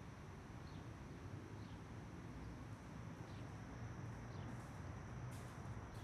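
Quiet outdoor ambience of insects: a steady high drone with faint short chirps every second or so, over a low rumble.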